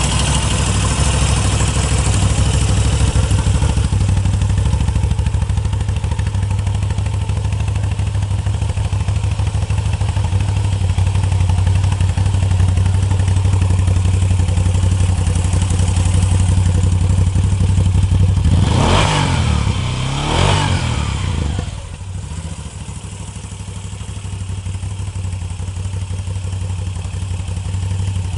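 2017 Moto Guzzi V7 III's air-cooled 750 cc transverse V-twin idling steadily. About two-thirds of the way in it is revved twice in quick succession, then settles back to idle.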